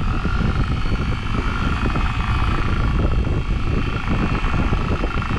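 Newly fitted electric anchor windlass running steadily with a motor whine, paying out anchor chain; the whine fades away near the end. A steady low rumble runs underneath.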